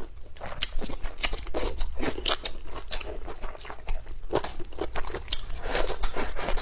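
Close-miked chewing and crunching of food, with wet mouth clicks and crisp bites, irregular and continuous; leafy greens and green chili peppers are being bitten and chewed.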